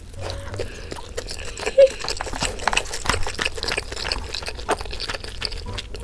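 Clicks, clinks and liquid sounds of a malatang meal being handled and eaten, with one short, loud pitched blip just under two seconds in.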